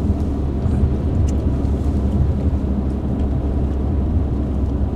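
Steady low road and engine rumble inside a car's cabin as it drives slowly on a snow-covered road.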